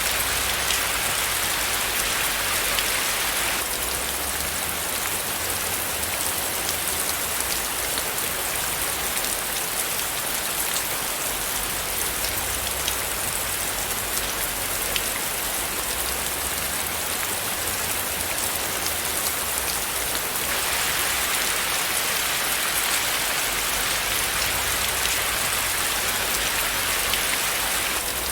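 Steady rain with dense, fine pattering of drops on a surface and a faint low rumble underneath. The mix shifts slightly about three seconds in and again about twenty seconds in.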